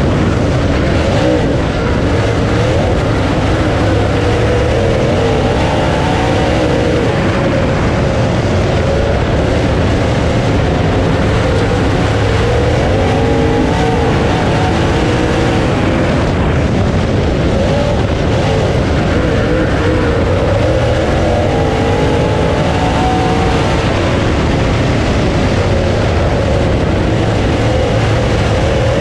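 Dirt late model race car's V8 engine running hard and loud on track, its pitch rising and falling repeatedly as the throttle comes on and off.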